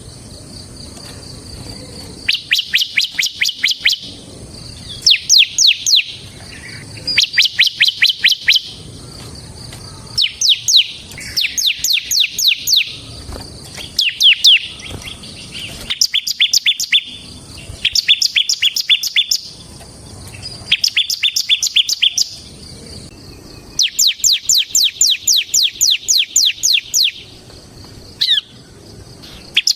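Bar-winged prinia (ciblek) singing its 'ngebren' song: repeated bursts of rapid, evenly spaced high chirping notes, each one to three seconds long, with a second or so of pause between them.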